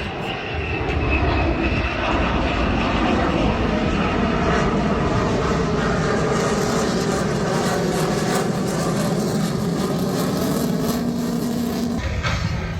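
Fixed-wing aircraft flying overhead, its engine noise steady and loud, changing abruptly near the end.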